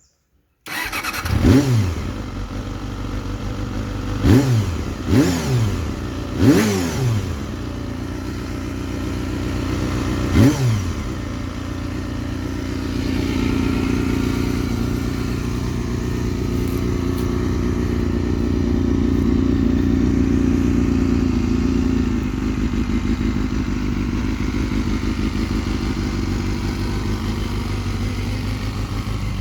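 Honda CBR250RR (MC22) 249 cc inline-four engine blipped five times in quick revs, each rising and falling sharply, then settling into steady running at idle, a little higher for several seconds in the middle.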